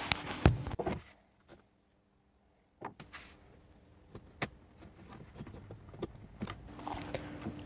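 Scattered light clicks and knocks of small plastic and metal parts being handled as a string trimmer's carburetor is worked off its two mounting studs, with a second or two of dead silence early in the stretch.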